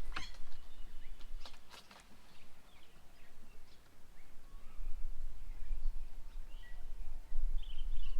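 Birds calling faintly and intermittently around a bird table, with a few brief flutters or knocks in the first two seconds, over a steady low rumble.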